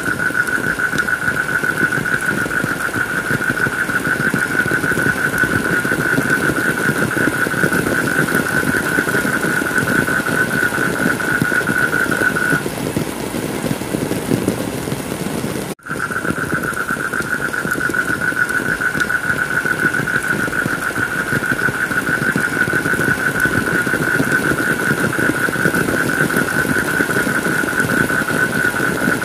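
Steady heavy rain ambience with a continuous high-pitched drone over it. The drone stops about twelve seconds in and returns after a brief dropout in the whole track a few seconds later.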